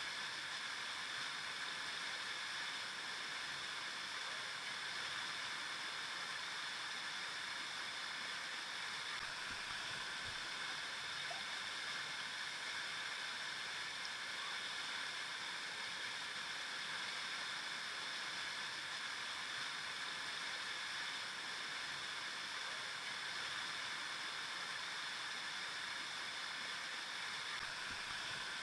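River water flowing steadily over rocks: a constant rushing and babbling.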